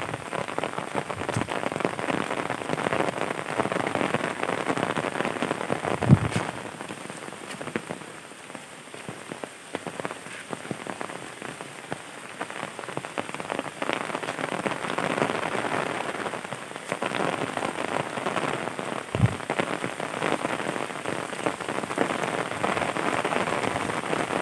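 Heavy rain pattering on surfaces close by, easing a little for a few seconds in the middle before building again. Two sharp knocks stand out, one about a quarter of the way in and one about three quarters through.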